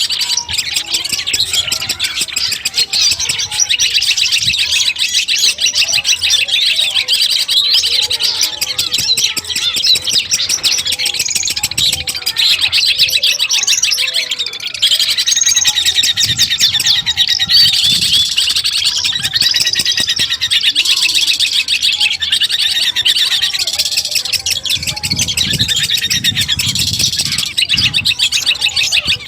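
Long-tailed shrike (cendet) song: a fast, unbroken chatter of high twittering notes.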